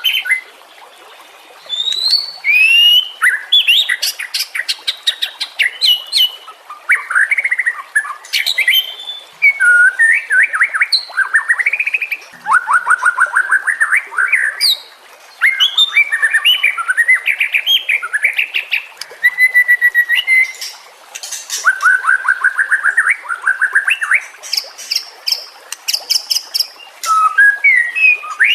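White-rumped shama singing: a long run of varied phrases, with rising whistles, fast trills of repeated notes and high chattering notes, broken by short pauses.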